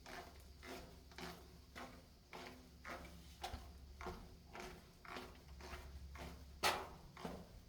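Footsteps at a walking pace, about two a second, with one louder step or knock near the end.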